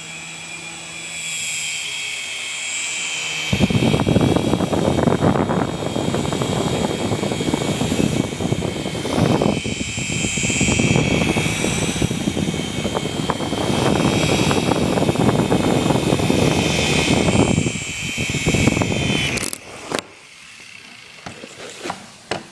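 RC helicopter's motor and rotors whining at a high, slightly wavering pitch, with a loud rushing buffet of rotor wash from about three seconds in. Near the end the whine drops in pitch and stops, as the motor spools down, followed by a few light clicks.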